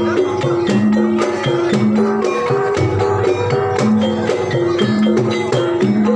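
Banyumasan gamelan music for ebeg dance: struck pitched notes in a repeating melodic pattern over frequent sharp drum and percussion strokes.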